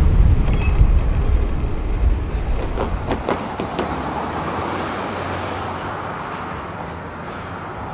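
Train rumbling past with a few sharp clacks about three seconds in; then the deep rumble drops away and a rushing noise slowly fades.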